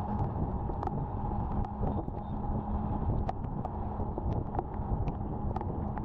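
Wind rushing over the microphone on a moving Honda Activa scooter, with the scooter's engine and road noise steady underneath and scattered small ticks.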